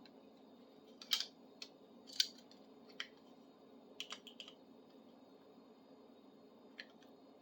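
Small metal parts of a tubing cutter clicking and clinking as it is reassembled by hand: a handful of sharp, irregular clicks over a faint steady hum.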